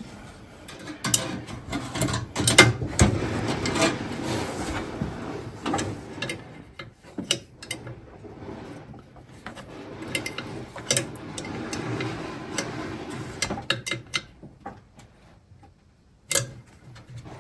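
Irregular clicks and clinks of hand tools and metal on metal as a steel brake line fitting is worked into place. The sound falls almost silent briefly near the end, then gives one more click.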